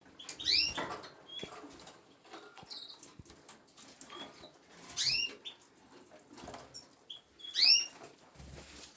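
Canaries calling: three loud, high chirps that rise and fall, a few seconds apart, with short faint whistles and small clicks in between.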